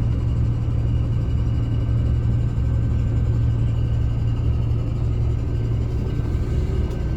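Mercedes-Benz O307 city bus heard from inside its passenger cabin: a steady low engine and road rumble with a faint, steady high whine over it.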